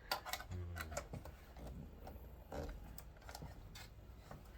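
Scattered light clicks and knocks of a plastic computer keyboard's case and a screwdriver being handled during disassembly.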